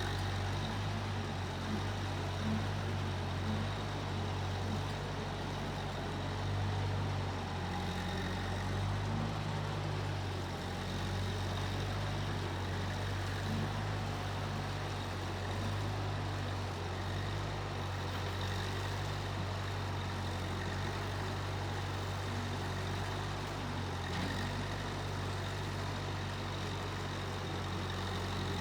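Case 1530 Uni-Loader skid steer engine running steadily at an even speed.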